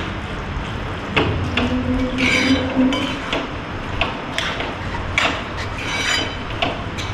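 Kitchen clatter: a string of sharp knocks and clinks from utensils and cookware being handled, about one a second, over a steady low hum.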